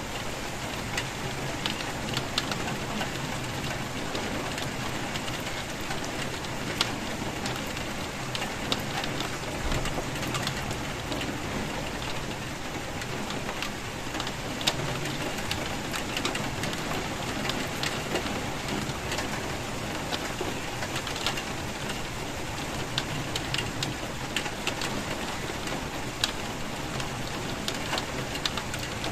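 Steady rain falling, with many individual drops landing as sharp little taps scattered through the steady hiss.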